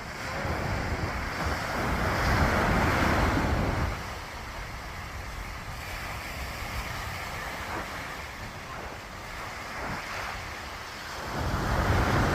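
Sea waves breaking on the shore: the surf swells loud over the first few seconds, settles to a lower steady wash, then builds again as another wave breaks near the end. Wind buffets the microphone with a low rumble throughout.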